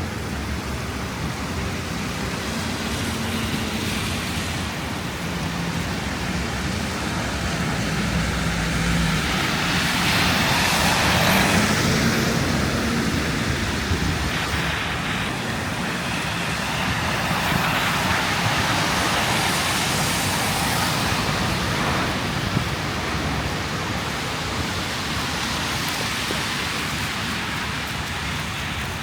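City street noise in a windstorm: a broad rushing of wind and passing traffic. It swells louder about ten seconds in and again near twenty seconds.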